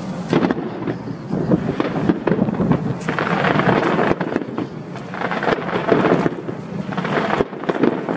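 Aerial fireworks going off in a dense barrage: rapid crackling over a run of booms, swelling and easing every second or two.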